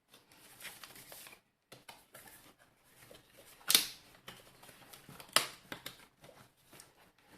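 Plastic housing of a steam iron being pried apart: plastic scraping and small clicks, with two sharp clicks about a second and a half apart near the middle.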